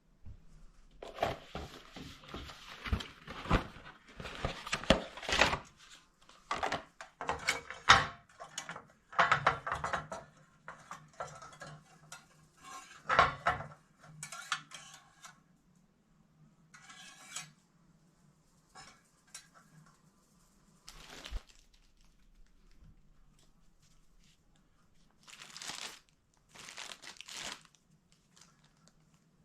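Dishes and utensils being handled: a busy run of clinks and knocks for about fifteen seconds, then a few scattered rustles and knocks.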